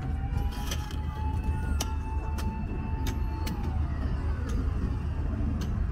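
Street traffic noise: a steady low rumble with a vehicle's whine that rises in, holds, then fades out, and scattered sharp clicks and knocks.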